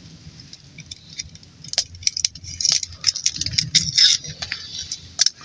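Staples being loaded into a hand staple gun: irregular small metal clicks and rattles, with several sharper clicks in the middle and second half.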